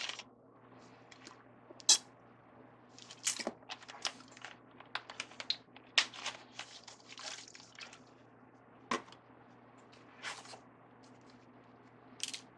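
Ribbon and craft tools being handled: scattered short clicks and rustles, the sharpest about two seconds and six seconds in, over a faint steady low hum.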